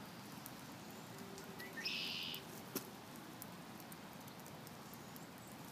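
Faint outdoor background with a single short, high-pitched bird call about two seconds in.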